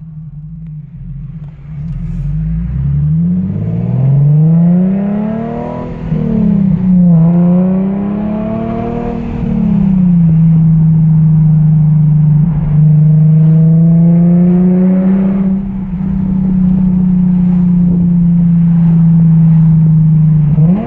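Infiniti G37 coupe's 3.7-litre V6 through a straight-through, non-resonated Topspeed axle-back exhaust, pulling hard with the pitch climbing steeply. The pitch dips around six seconds in and climbs again. From about ten seconds in it settles into a steady, loud tone at constant revs.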